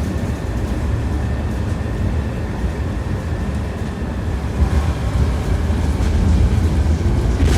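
Tram running along its track, its wheels and bogies making a steady low rumble with faint whining tones above it, growing a little louder in the second half.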